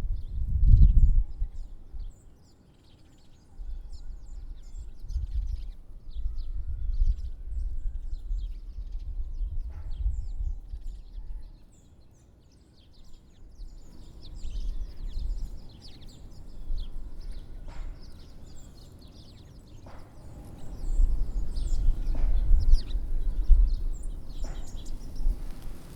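Many small songbirds at winter feeders chirping and calling in quick, overlapping notes. A low rumble comes and goes underneath, loudest about a second in and again near the end.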